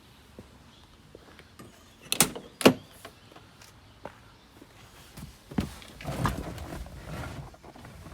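Two sharp knocks about half a second apart, then a click and a couple of seconds of rustling and shuffling.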